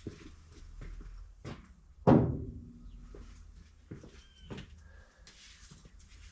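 A series of sharp metal taps and knocks, the loudest about two seconds in with a short ring after it: a hammer tapping the stuck valves in an old Chevy truck engine's valve train to free them.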